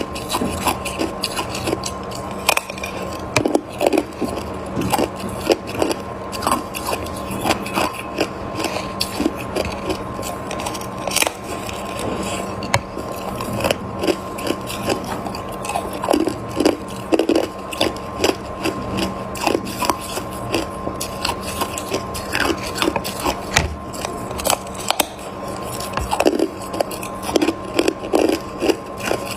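A person biting and chewing hard ice close to the microphone: a string of crisp, irregular crunches and cracks.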